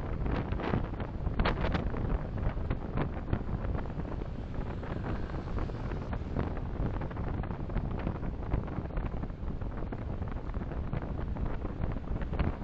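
Car interior driving noise picked up by a dashcam: a steady low rumble of road and engine noise with frequent small clicks and knocks throughout.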